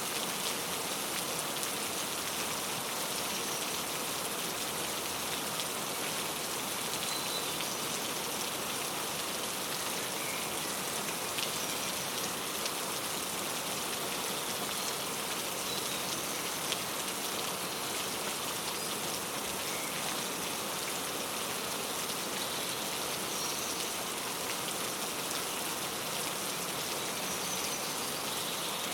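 Steady rain falling, an even hiss, with a few faint, brief bird chirps scattered through it and now and then a sharper drip.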